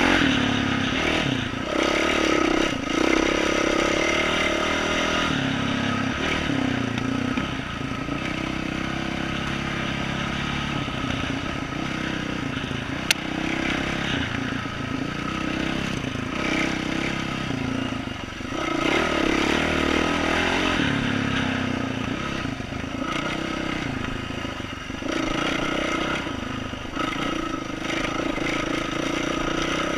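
2012 Yamaha YZ450F's single-cylinder four-stroke engine with an aftermarket exhaust, revving up and easing off again and again as the dirt bike is ridden over roots, with clattering from the bike. A single sharp click about 13 seconds in.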